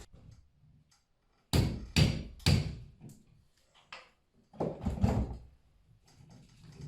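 Three sharp knocks about half a second apart, then a looser cluster of thumps a few seconds later, like knocking or banging on timber.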